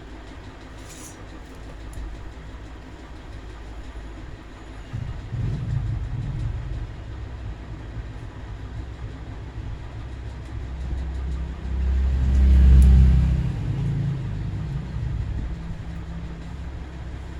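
Low mechanical rumble that swells to a loud peak about twelve seconds in and then fades back.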